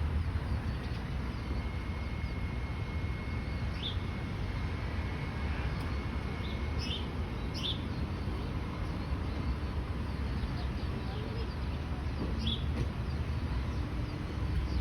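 Steady low rumble of outdoor ambience with a few short bird chirps, four or so, scattered through it.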